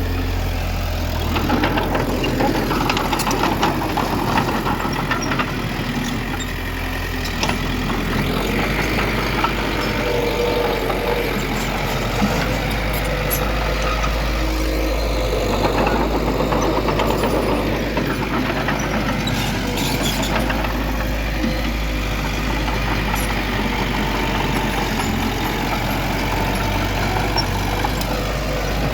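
Heavy diesel earthmoving machinery running under load, its low engine drone shifting pitch a few times, with steady mechanical clatter and occasional knocks.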